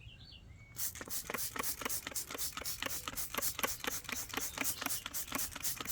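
Rapid, irregular scratchy strokes, about seven a second, from hand-cleaning a greasy tractor engine with degreaser; they start about a second in.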